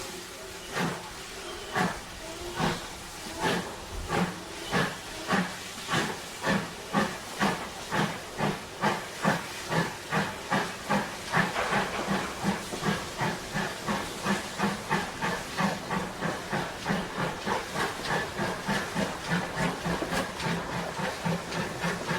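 Steam locomotive exhaust chuffing as it pulls away, the beats about one a second at first and steadily quickening to around three a second, over a steam hiss; the sound cuts off suddenly at the end.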